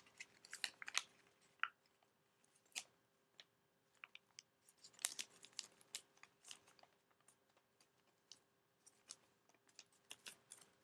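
Paper being folded and pressed flat by hand: scattered soft crackles and crisp ticks of a folded origami sheet, irregular and faint.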